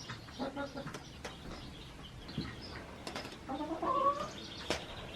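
Domestic hens calling: a short call about half a second in and a longer, rising call about three and a half seconds in, with a few sharp knocks and clicks between them.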